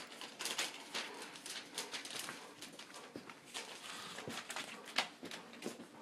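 Four-week-old English cream golden retriever puppies playing: an irregular patter of scratches and clicks, several sharp ones, with no steady rhythm.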